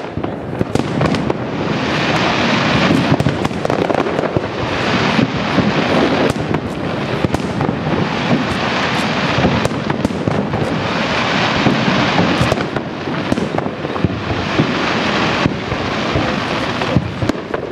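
Aerial firework shells bursting in a continuous barrage: a dense stream of bangs and crackling that swells and eases every few seconds.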